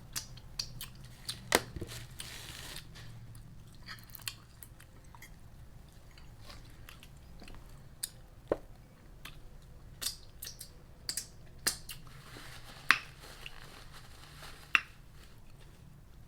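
A person chewing and biting into crunchy fried food, with irregular sharp crunches and mouth clicks between quieter stretches of chewing.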